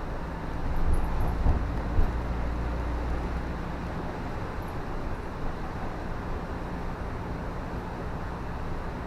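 Car driving on a wet road: steady tyre and road noise with a low rumble, and a couple of short knocks about one and a half and two seconds in.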